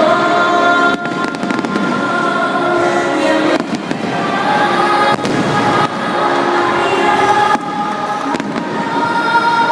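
Aerial fireworks in a dense climax barrage, continuous booming and crackling bursts, with music with sustained notes playing alongside.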